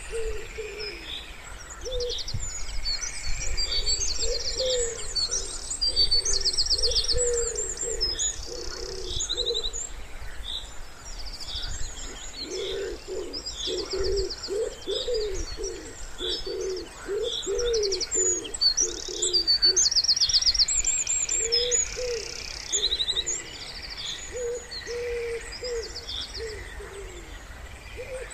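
Wood pigeons cooing in repeated low phrases, densest around the middle, while small songbirds chirp and trill high above throughout.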